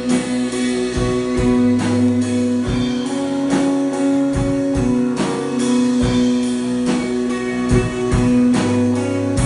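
Instrumental break of a worship band's song, led by guitar, with steady held notes and a regular strummed beat.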